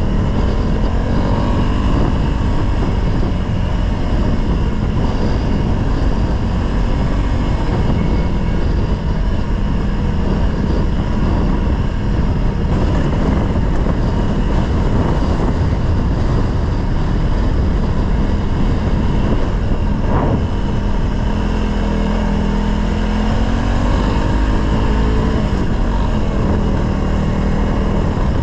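Honda CRF dirt bike's engine running as it is ridden, its pitch rising and falling with the throttle, most clearly in the last third, over a steady rush of noise.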